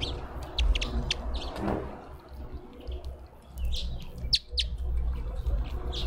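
Small birds chirping: short, sharp, high chirps scattered throughout, over a low steady rumble.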